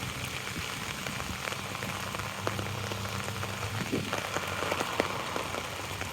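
Steady rain falling on an umbrella held overhead, heard as a continuous hiss dotted with many separate drop ticks.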